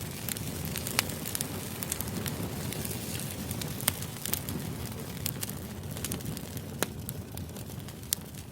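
Crackling fire ambience: a steady low hiss with scattered sharp pops, about one every second or two.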